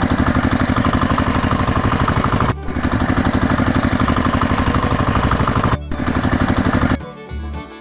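A small engine running with a fast, even chugging, cut off briefly twice; music returns near the end.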